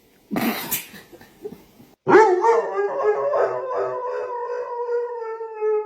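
Dog howling: one long howl starting about two seconds in, wavering at first, then held steady and sagging slightly in pitch at the end. It is preceded by a brief noisy sound near the start.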